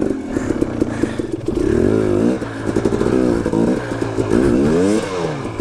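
Dirt bike engine revving hard in repeated bursts during a steep hill climb, its pitch rising and falling again and again as the throttle is worked, with some clattering.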